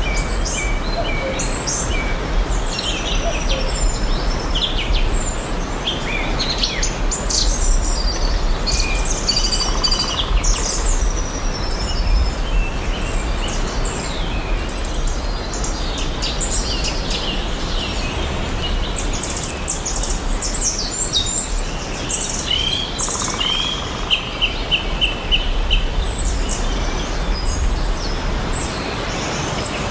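Several songbirds chirping and singing over a steady background hiss and low rumble, with a quick run of evenly repeated notes a little after two-thirds of the way in.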